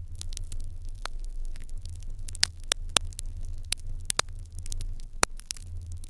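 Fire in an irori hearth crackling, with frequent sharp pops over a steady low hum. The loudest pop comes about five seconds in.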